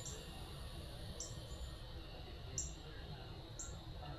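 A bird giving short, high chirps, one roughly every second, over a low steady rumble.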